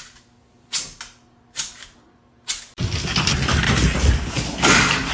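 Four sharp knocks, a little under a second apart, over a faint low hum. Nearly three seconds in, a loud continuous noisy sound takes over.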